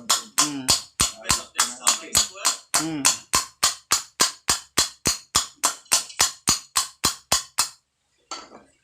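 A rapid, even series of sharp taps or knocks, about three to four a second, that stops abruptly near the end.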